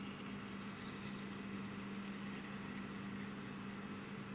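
A steady low hum that holds one pitch, with a few faint, soft crackles about two to three seconds in as masking tape is peeled off a painted plastic model wing.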